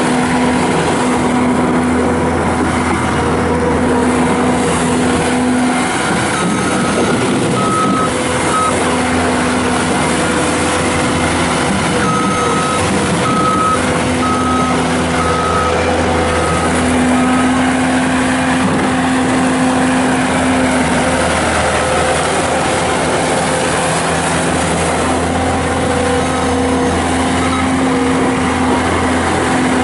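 Bobcat S630 skid steer's Kubota V3307 four-cylinder diesel running steadily under work, with its backup alarm beeping in two runs of short, evenly spaced beeps as the machine reverses.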